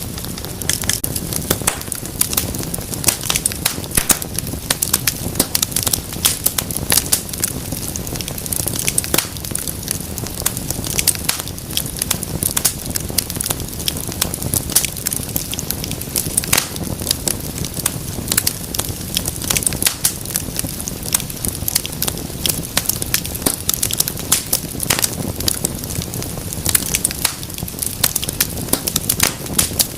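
Fire in a fireplace crackling steadily, with a dense, irregular run of sharp pops and snaps over a low rumble of flame.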